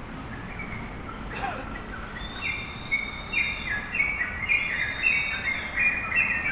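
Yellow-vented bulbul (crucukan) singing: faint whistled notes at first, then from about two seconds in a quick run of bubbly, stepped whistled phrases that grows louder.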